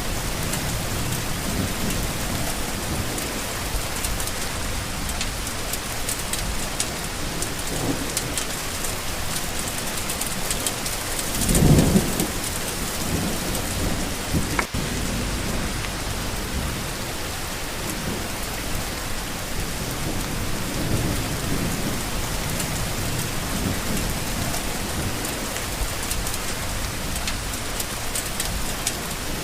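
Steady heavy rain falling, with low rolls of thunder; a louder, short rumble swells about twelve seconds in.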